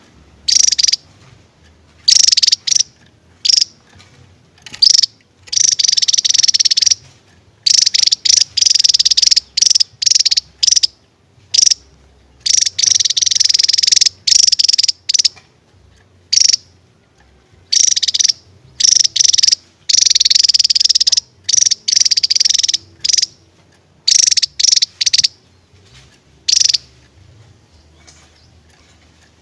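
Javan tesia singing loud, high-pitched rapid trills in repeated bursts, some running a second or two and others clipped short, with brief pauses between them.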